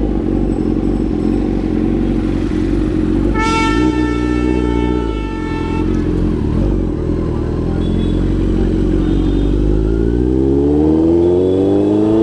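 Kawasaki Z900's 948cc inline-four engine running on the move, dropping in pitch about four seconds in and then rising steadily as it accelerates near the end. A vehicle horn sounds steadily for about two and a half seconds starting a little over three seconds in.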